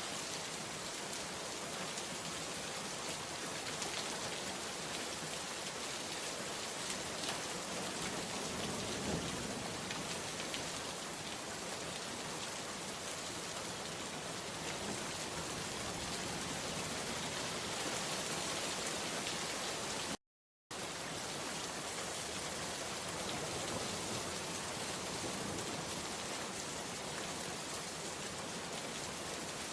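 Steady rain falling, an even hiss of many drops. About two-thirds of the way through it cuts out to silence for about half a second, then resumes unchanged.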